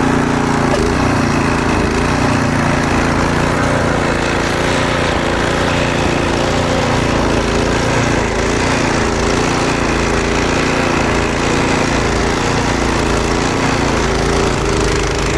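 Snowblower's small gasoline engine running steadily at high speed.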